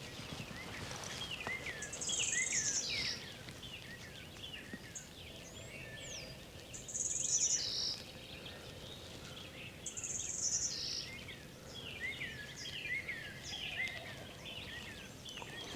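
Several songbirds singing in a spring woodland chorus: many short, sliding chirps, and a high, buzzy song phrase that repeats about every four seconds.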